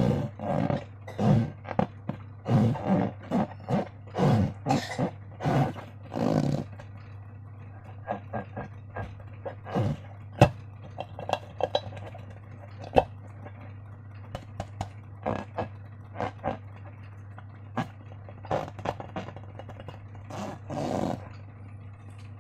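Slime being squeezed and squished by hand, making irregular wet squelches and burp-like gurgles. They come thick and fast for the first several seconds, then thin out into scattered squishes and sharp little clicks.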